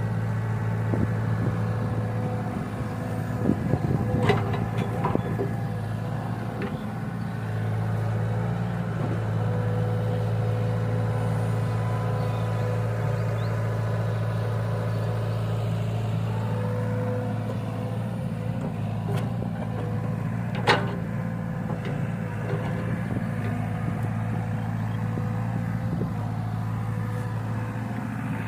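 Heavy diesel engine running steadily under load, with some rattling clatter a few seconds in and a single sharp clank about twenty seconds in.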